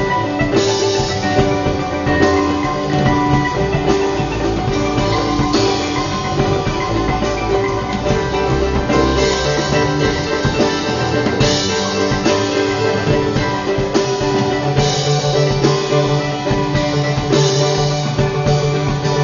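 Live band playing an instrumental passage with no singing, over a steady drum beat.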